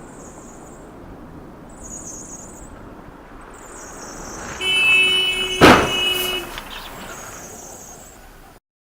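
Car road noise, then a car horn blares for about two seconds, with one loud bang of a collision in the middle of it. The noise dies away and cuts off near the end.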